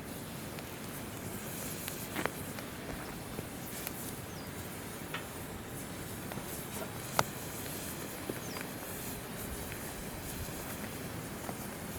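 Wood campfire crackling, with a few sharp pops, the loudest about seven seconds in, over the steady rush of a flowing river.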